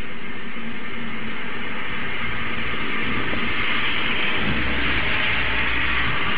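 Steady heavy rain hissing during a summer thunderstorm, growing a little louder over the second half, with a low rumble of distant thunder from about four and a half seconds in.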